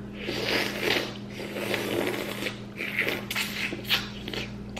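Close-miked eating of a buttery seafood boil: wet chewing and sucking for about two and a half seconds, then a run of sharp mouth clicks and smacks, over a low steady hum.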